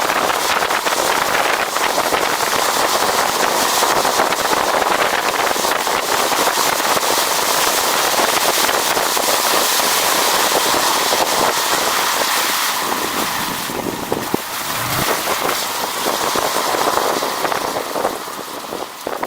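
Wind rushing over the microphone with vehicle road noise while riding, a dense, crackly hiss. It eases off about two-thirds of the way through as the speed drops.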